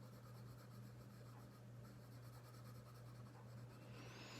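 Faint scratching of a coloured pencil on paper as an area is shaded in, over a low steady hum.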